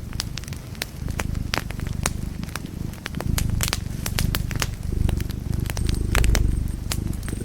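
Wood fire in a fireplace crackling, with many sharp pops and snaps scattered irregularly over a low, steady rumble of burning.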